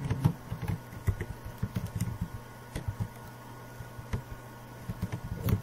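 Typing on a computer keyboard: a run of irregular keystroke clicks over a steady low hum.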